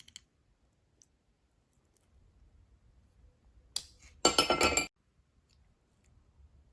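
Tableware clinking: a faint click, then about four seconds in a short ringing clatter lasting under a second.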